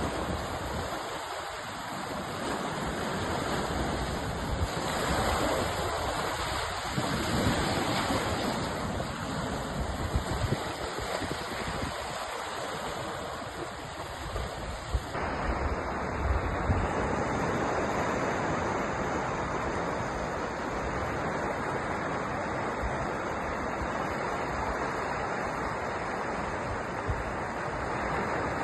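Ocean surf: a continuous rush of waves breaking and washing in, rising and falling, fuller again about halfway through.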